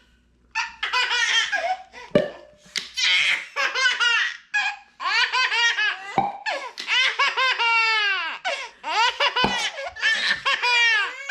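A young child laughing hard in repeated high-pitched bursts, the pitch of each burst arching up and down.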